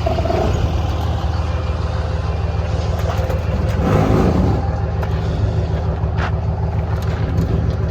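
A large vehicle engine running steadily at idle, with a brief louder noise about four seconds in.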